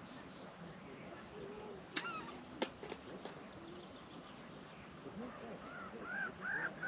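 Birds calling in short arched calls, a quick run of them near the end, with two sharp clicks about two seconds in.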